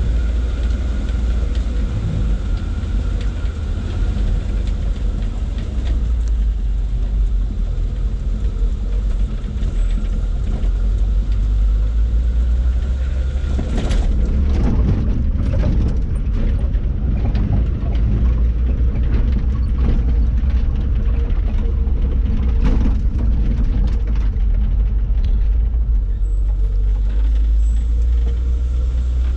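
Truck engine running hard on a steep uphill climb, a loud steady low drone. From about halfway in it is joined by irregular sharp knocks and rattles.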